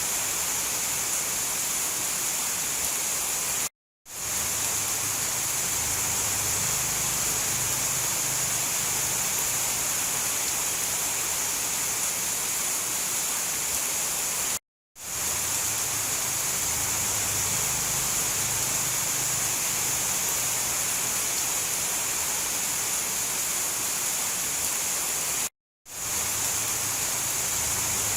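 Steady heavy rain, a dense, even hiss. It cuts out to silence for a fraction of a second three times, about 11 seconds apart, like a recording looping.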